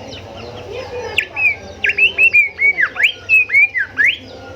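Golden whistler singing a rapid string of about a dozen loud whistled notes, each swooping down then sharply back up. The string starts about a second in and stops near the end, over fainter background bird calls.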